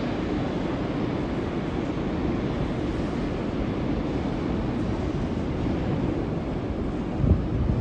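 Moscow metro train running along the track, a steady noise with a brief low thump near the end.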